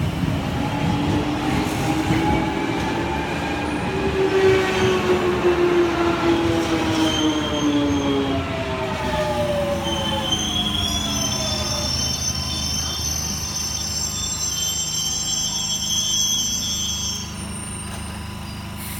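London Underground 1996 Stock train's traction motors whining, several tones falling in pitch as the train slows. This is followed by a high-pitched squeal of wheels and brakes as it comes to a stop.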